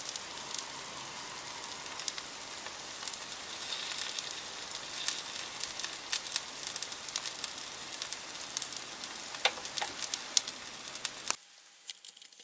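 Okonomiyaki frying in a pan: a steady sizzle with scattered crackles and pops. It cuts off suddenly about a second before the end.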